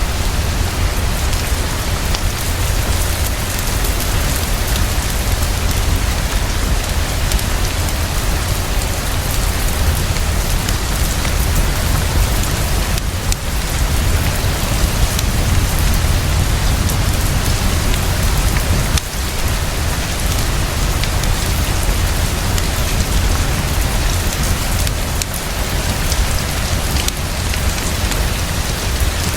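Heavy, steady rainfall: a dense, even hiss of fast rain with a constant low rumble underneath.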